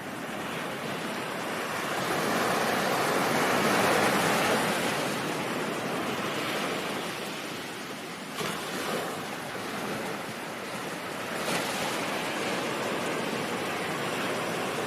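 Ocean surf: a wave swells and washes in, loudest about four seconds in, then recedes, with new waves breaking suddenly about eight seconds and eleven and a half seconds in.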